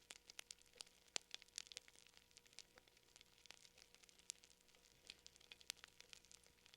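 Faint crackling of a fire: sharp, irregular pops and snaps, several a second, some louder than others, over a faint steady hum.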